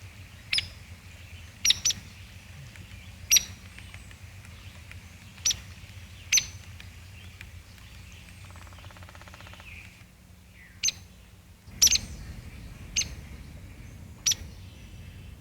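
Woodpecker giving about ten short, sharp, high-pitched single calls at irregular intervals.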